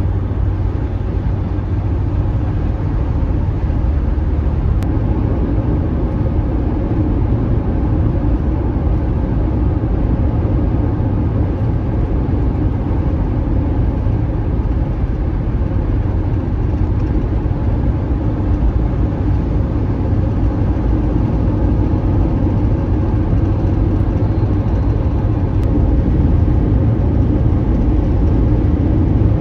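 A car driving steadily, with a constant low rumble of engine and road noise.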